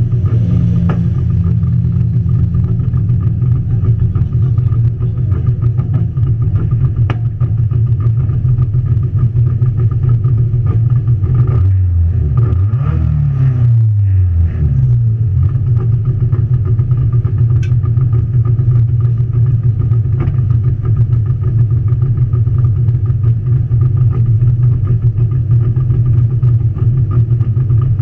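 Rally car engine idling steadily and loudly inside the stripped cabin, with one brief rise and fall in revs about halfway through.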